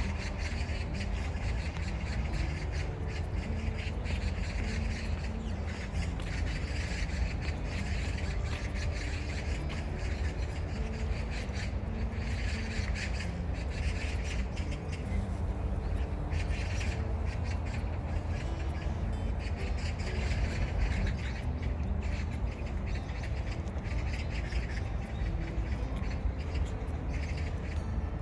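Harsh, crow-like bird calls, each about a second long, repeating every few seconds over a steady low outdoor rumble.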